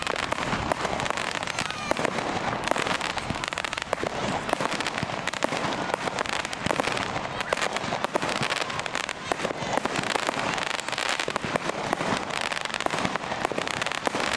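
Fireworks display going off without pause: a dense, continuous crackling and popping of bursting shells, with many sharp bangs mixed in.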